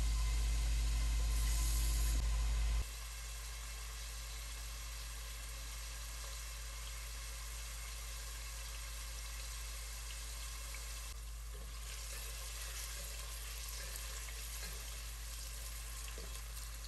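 Carrot cubes frying in hot oil in a stainless steel pot, a steady sizzle. The sound drops abruptly to a quieter level about three seconds in.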